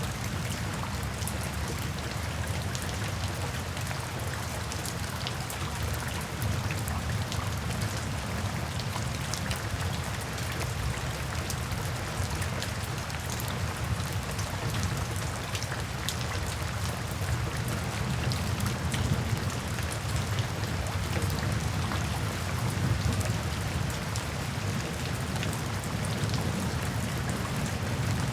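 Steady rain falling, with many fine drop ticks over a low, continuous rumble.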